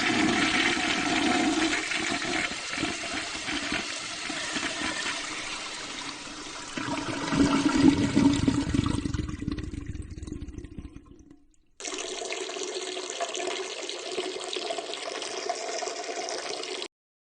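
A toilet flushing: rushing water that swells again about seven seconds in, then drains away. After a short gap, a different steady hiss with a faint hum starts and cuts off abruptly.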